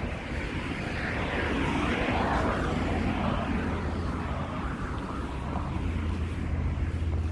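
A vehicle passing along the street: its noise swells up, peaks and fades away over a few seconds, over a steady low traffic rumble.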